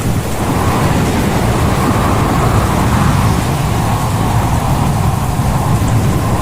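Storm wind and heavy seas around a ship: a loud, steady rushing with a deep rumble underneath.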